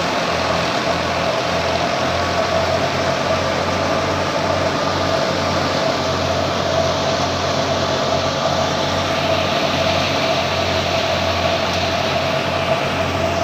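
Heavy farm-machinery engine running steadily, with a steady whine above the low engine hum.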